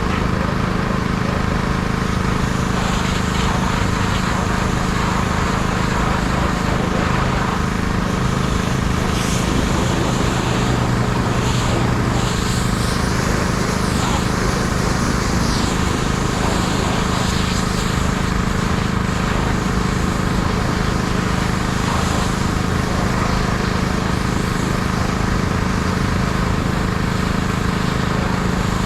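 Small engine of a mobile pressure washer running steadily under load, with the hiss of a high-pressure water jet that comes and goes as the spray moves.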